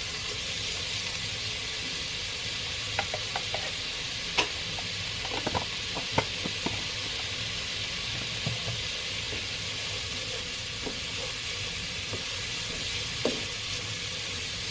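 Onion frying in oil in a pan, a steady sizzle, with a utensil clicking and knocking against the pan a few times, mostly between about three and six seconds in and once more near the end, as garlic and ginger paste is stirred in.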